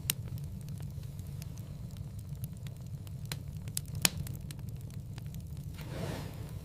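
Wood fire in a fireplace crackling: a steady low rumble of flames under scattered small snaps and a few sharp pops, the loudest about four seconds in, with a brief rushing swell near the end.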